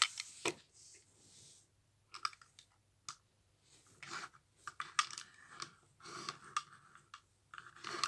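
Scattered light clicks and knocks of small plastic toy vehicles being handled, with some soft rustling in between.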